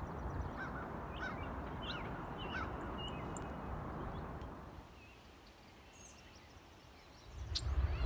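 Scattered short bird chirps over a low rumble, in the first half. The sound then drops away, and near the end a loud low rumble cuts in.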